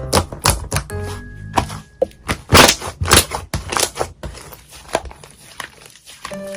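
Slime being squeezed and worked by hand, giving many sharp crackling clicks and pops, over background music.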